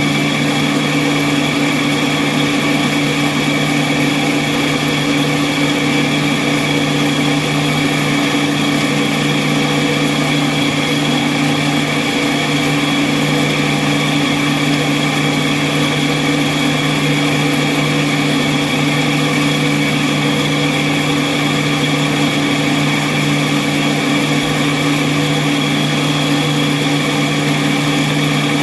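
Park Fastback I machine running steadily with its newly replaced and calibrated belt gearbox: an even motor hum whose pitch never changes.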